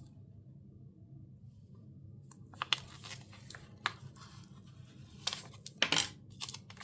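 Sticker sheet being handled and a sticker peeled off its backing: a run of short paper crackles and small taps starting about two seconds in, with a few sharper ones near the end.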